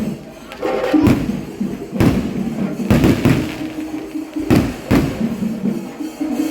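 Fireworks going off in a series of sharp booms, about one a second and irregular, with steady music playing underneath.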